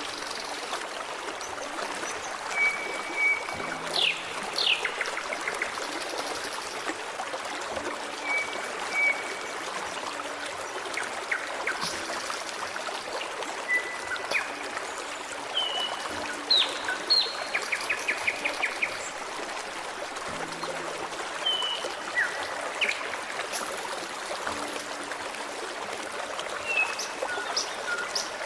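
Forest stream babbling steadily, with small birds giving short chirps and whistles on and off.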